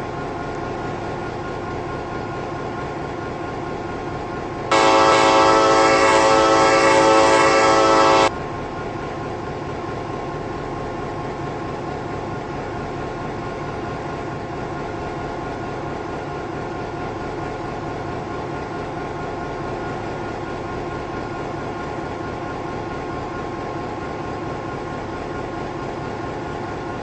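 Locomotive air horn sounding one long blast of about three and a half seconds, starting about five seconds in, over the steady noise of a running train.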